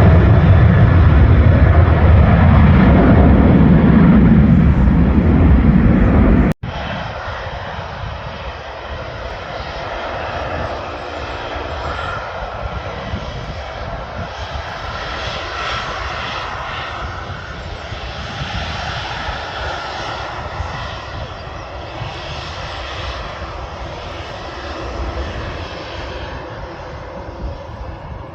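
Aircraft engines running loud with a deep rumble, cut off abruptly about six and a half seconds in. Then a quieter aircraft engine with a steady hiss higher in pitch.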